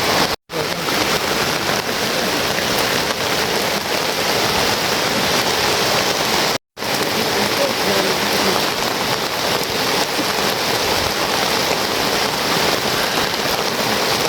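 Steady, heavy rain falling, an even hiss; the sound cuts out completely for a split second twice.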